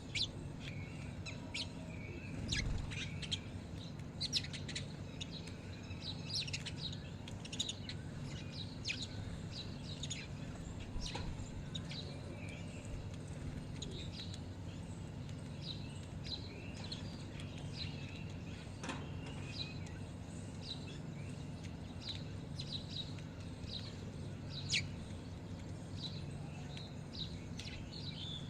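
A flock of birds chirping: many short, high calls scattered throughout, over a steady low hum.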